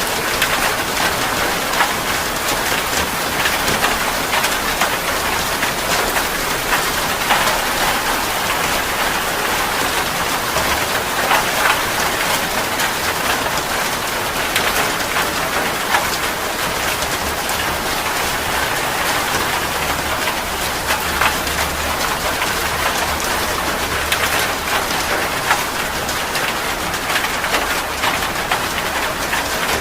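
Steady heavy rain falling on a surface, a continuous even rush dotted with many sharp individual drop impacts.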